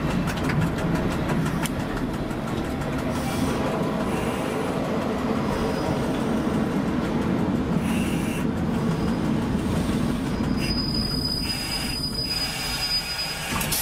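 Passenger train rolling along the track, heard from the driver's cab as a steady rumble. A high, steady wheel squeal joins it for a couple of seconds near the end.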